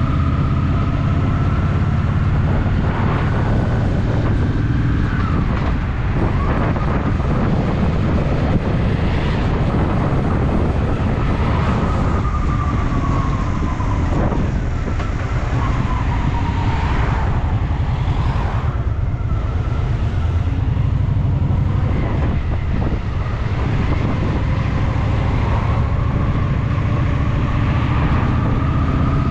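Honda Shadow VT750's V-twin engine running under way, with a steady low throb and road and wind noise. A thin whine rises and falls in pitch several times.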